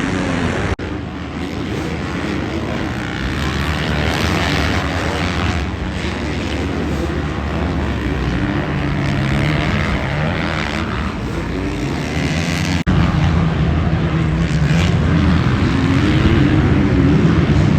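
Motocross bike engines running and revving, rising and falling in pitch, with two abrupt cuts, about a second in and about thirteen seconds in.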